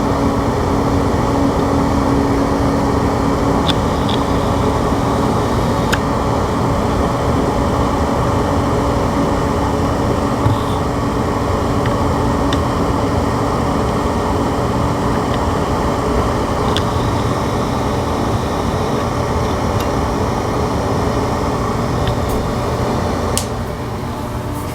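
A 50 CFM ventilation fan running steadily with a loud, even whoosh and hum. The level drops a little near the end.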